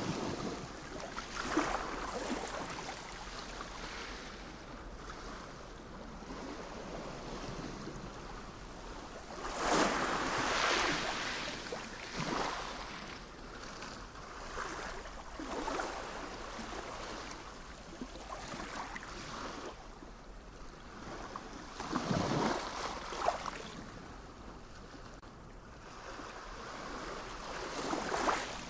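Sea waves washing ashore: a steady hiss of surf that swells and fades every few seconds. The biggest surges come about a third of the way in and again about three-quarters of the way through.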